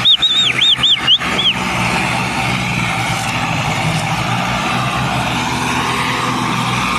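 Tractor engine running steadily under load while hauling a loaded trolley. Over the first second and a half comes a quick run of about seven high, arching chirping whistles.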